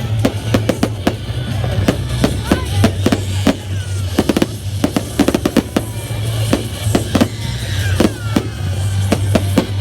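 Fireworks cracking and popping in quick, irregular succession, several bangs a second, over a steady low rumble.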